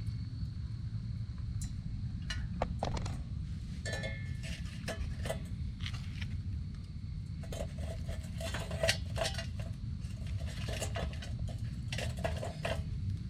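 Metal utensils clinking and scraping against a campfire frying pan: a series of light clinks with brief ringing, starting about two seconds in, over a steady low rumble.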